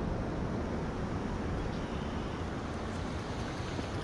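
Steady rushing of water pouring over a creek spillway: an even, unbroken noise heaviest in the low end.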